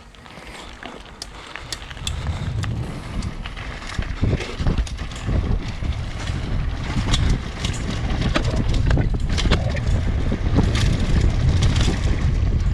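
Mountain bike ridden down a dirt trail, heard from a bike- or rider-mounted camera: wind buffeting the microphone as a heavy rumble, with the bike rattling and knocking sharply over bumps. It grows louder over the first two seconds as the bike picks up speed.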